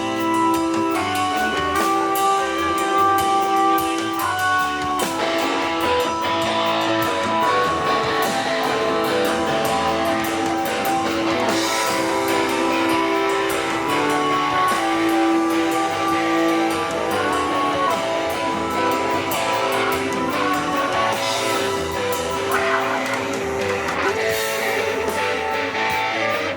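A band playing music live at a sound check, guitar prominent among held chords and notes, with drums striking throughout.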